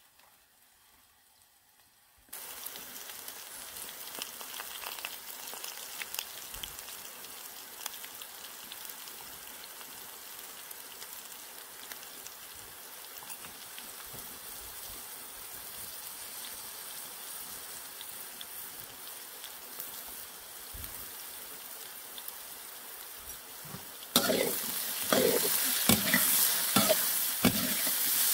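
Cubed eggplant and potato frying in hot oil in a wok: a steady sizzle that starts suddenly about two seconds in. Near the end a slotted metal ladle stirs and scrapes through the pan, making the sizzle louder with repeated strokes.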